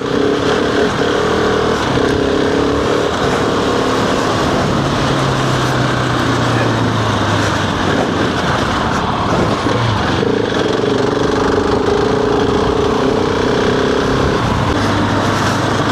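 Husqvarna 701's single-cylinder engine running under way at a steady pace, its note holding and then stepping to new pitches, under a constant rush of wind and road noise.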